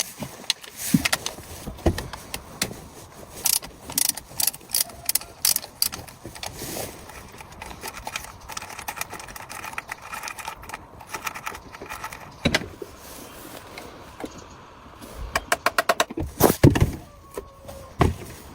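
Irregular clicks and knocks of small hard objects, like metal parts clinking, with a quick run of clicks, about nine a second, near the end.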